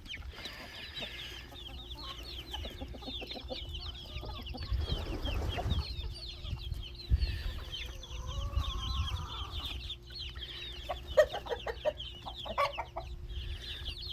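A flock of chickens clucking and calling throughout, with a longer drawn-out call about eight seconds in and a few louder clucks near the end.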